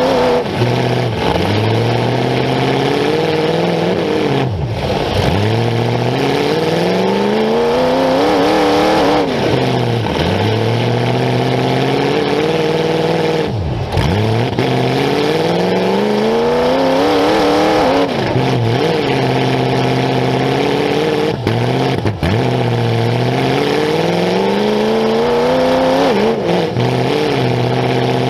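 Demolition derby car's engine, unmuffled through open exhaust stacks on the hood, revving hard again and again: the pitch climbs in long sweeps and falls back about every four to five seconds, with a few sudden brief drops where it bogs down.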